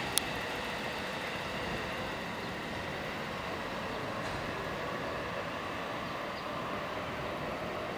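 Steady rumble of a train running on, quieter than the squealing pass just before, with no crossing bell rhythm. One sharp click sounds just after the start.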